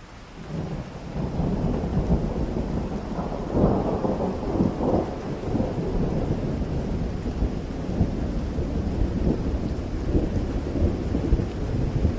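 Rain falling with a long rolling thunder rumble that swells up about half a second in, crackles loudest around four seconds in, and keeps rumbling on.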